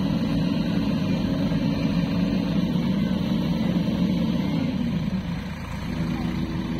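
Heavy diesel engine running hard, easing off about five seconds in and settling into a steady idle.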